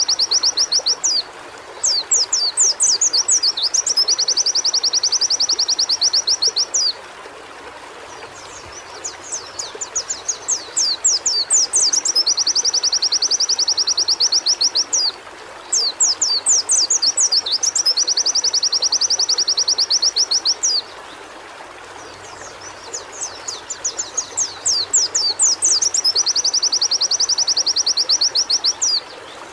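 White-eye (pleci) singing: runs of quick, sweeping chirps that lead into long, fast, even trills, phrase after phrase with short pauses between, over a steady hiss.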